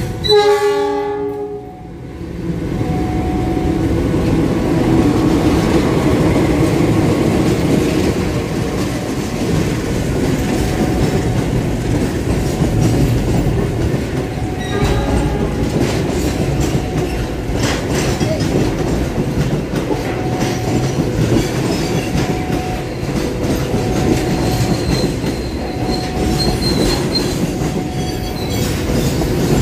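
A CC206 diesel locomotive's horn blares briefly just after the start. A long container freight train then rolls past close by with a steady loud rumble of wheels on the rails, and a faint high wheel squeal comes near the end.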